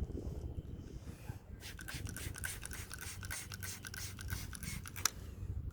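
Microfiber cloth wet with soapy water scrubbing across a car windscreen, a rapid run of scratchy rubbing strokes, densest from about a second and a half in.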